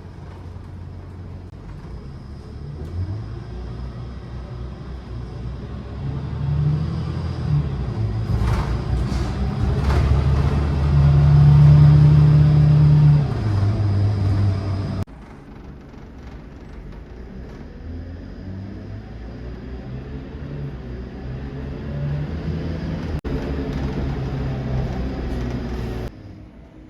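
City bus engine and road noise heard from inside the moving bus. The engine note rises as it accelerates and is loudest about twelve seconds in, then drops suddenly to a quieter, steady run.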